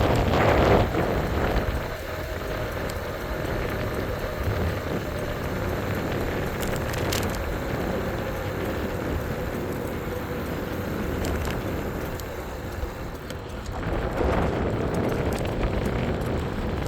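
E-bike riding noise: wind buffeting the microphone and road rumble, louder in the first second and again near the end, with a faint steady whine underneath.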